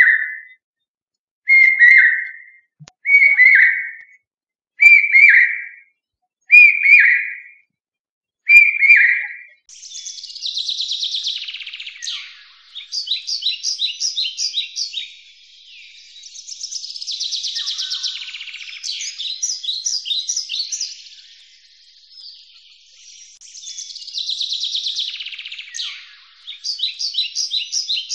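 Bird calls. First come six short whistled notes, each sliding slightly down, about one every second and a half. About a third of the way in, a dense, fast high chirping takes over, swelling and fading in waves.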